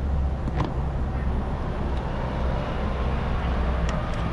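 Steady low rumble throughout, with a light click about half a second in and another near the end.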